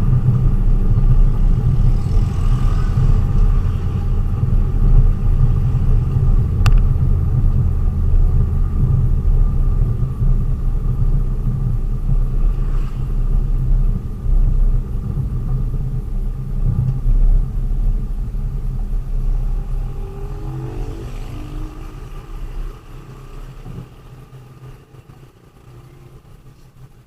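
Low, steady rumble of a delivery vehicle being driven, made of engine and road noise. It fades away over the last several seconds.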